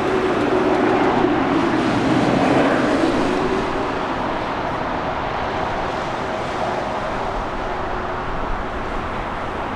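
Boeing 777 jet engines going by on landing approach: a steady roar with a drone that falls slightly in pitch as it passes, loudest in the first three seconds, then settling to an even rumble.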